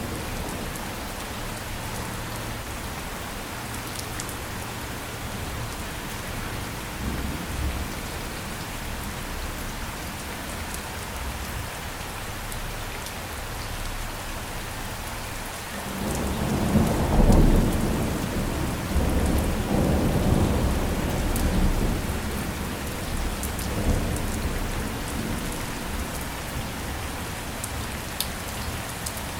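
Steady rain falling, with a roll of thunder about halfway through: a deep rumble that swells suddenly, is loudest within the first couple of seconds, and rolls on in weaker swells for several seconds more.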